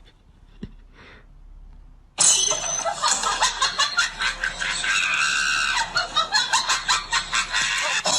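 Loud human shrieking and laughter in quick pulses, starting suddenly about two seconds in after a quiet start with a few soft clicks.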